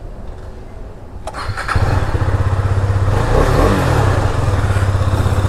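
A Husqvarna 250 motorcycle's single-cylinder KTM-built engine is started with the starter about a second and a half in and catches at once. It gets a short rev, then settles into a steady idle.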